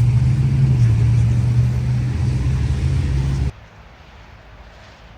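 A vehicle engine runs with a steady low drone, then stops abruptly about three and a half seconds in, leaving only a faint low rumble.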